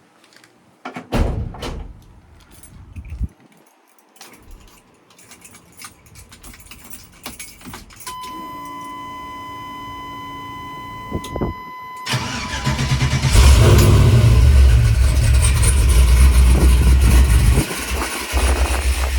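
1985 Chevy C10 pickup's V8 engine cranked and started about twelve seconds in, then running loud and deep at a fast idle, with a brief dip in level near the end. Before it, scattered clicks and knocks, then a steady high tone for about four seconds.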